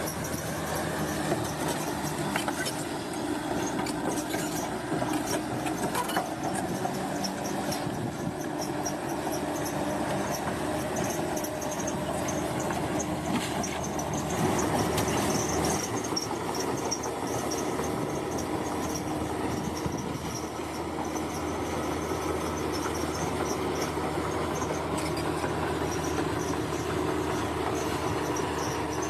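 Tracked bulldozer's diesel engine running steadily, with metallic clanking and squeal from its steel tracks.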